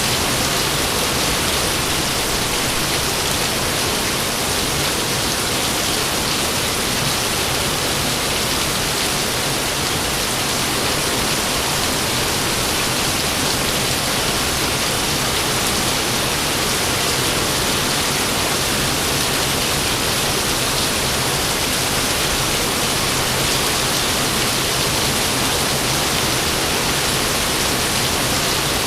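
Steady heavy rain, an even hiss with no pauses and no thunder claps.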